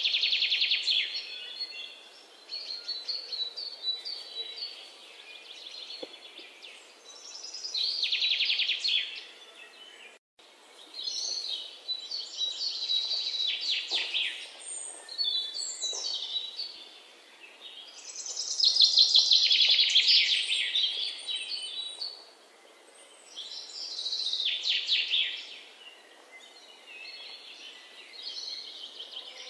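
Songbirds singing: rapid trilled phrases a second or two long, repeating every few seconds.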